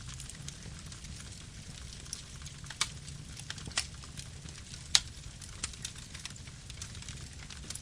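Campfire burning: irregular crackles and sharp pops over a low, steady rumble of flames, the loudest pop about five seconds in.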